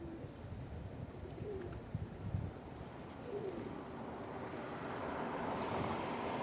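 Feral pigeons cooing softly, with a rushing noise swelling steadily louder over the last couple of seconds.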